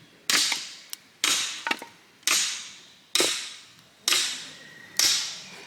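Six sharp strikes, about one a second, each followed by a fading hiss.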